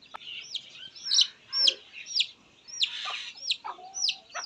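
Chicks peeping: a string of short, high, falling cheeps, two or three a second.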